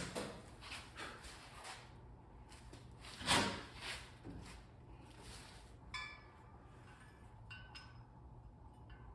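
Metal pieces being handled on a workbench: scattered faint clicks, a short rush of noise a little over three seconds in, then a few light metallic clinks with brief ringing around six and seven and a half seconds in.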